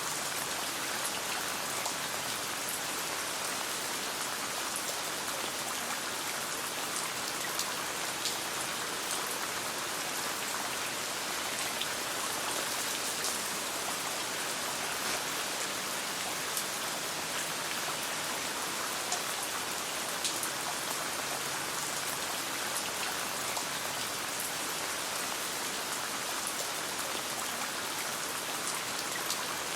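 Steady rain falling, a dense even hiss with scattered sharp ticks of single drops.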